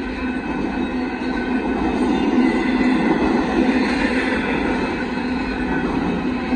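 Double-stack intermodal freight cars of a passing train rolling by, the steady noise of their wheels running on the rails.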